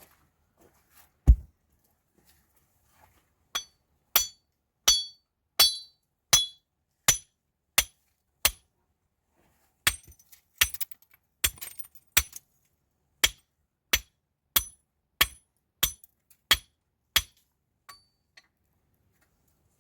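A single heavy thud about a second in, then a long run of hard, evenly paced knocks, about one every 0.7 s. The early knocks have a short high ring.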